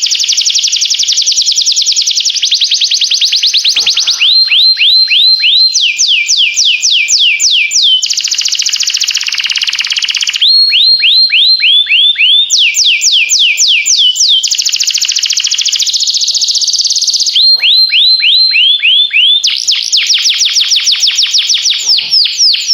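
Domestic canary singing a loud, fast song built of trilled phrases: rapid runs of repeated notes alternating with slower series of downward-sweeping whistles, the phrase changing every two seconds or so.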